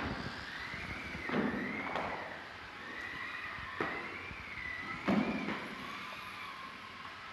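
Small electric motor of a 1:32 Mini-Z RC truck whining, its pitch rising and falling with the throttle, with about four sharp knocks along the way.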